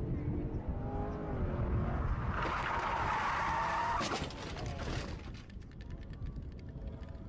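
A car's engine and tyres running, with a rushing skid from about two and a half seconds in that lasts about a second and a half.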